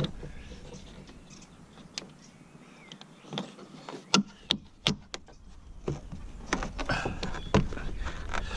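A plastic trim piece being handled and pressed onto a truck's inside door panel: scattered sharp clicks and taps, several close together about halfway through.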